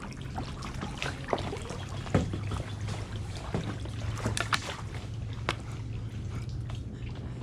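Kayak paddle strokes in shallow water: splashing and trickling as the blades dip and drip, with scattered sharp knocks and clicks, the loudest about two seconds in. A steady low hum runs underneath.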